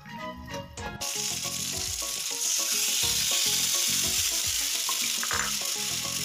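Marinated chicken drumsticks sizzling in hot oil in a wok. The sizzle starts abruptly about a second in and gets louder a little later as water is poured into the hot pan.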